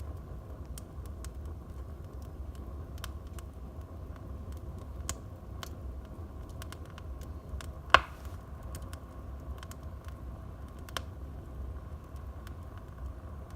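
Wood fire burning in a fireplace: a steady low rumble with scattered sharp crackles, and one loud pop about eight seconds in.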